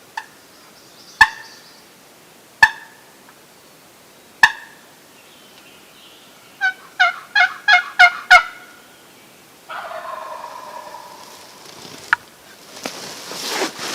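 Turkey calling: four single sharp clucks, then a quick run of six yelps, answered about ten seconds in by a wild turkey gobbler's rattling gobble.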